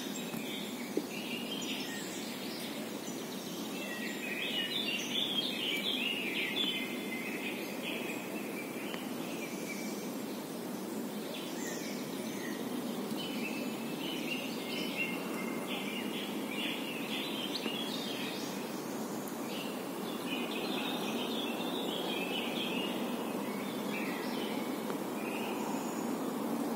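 Songbirds singing in several spells of quick, high chirping phrases over a steady low background noise.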